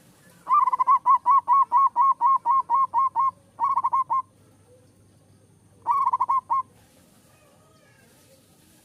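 Zebra dove (perkutut) singing: a quick run of about a dozen evenly spaced cooing notes, then two short bursts of notes.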